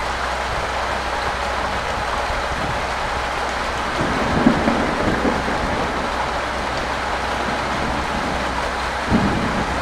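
Steady rain falling, an even hiss, with a steady low rumble beneath and a few soft low thuds about four and a half seconds in and near the end.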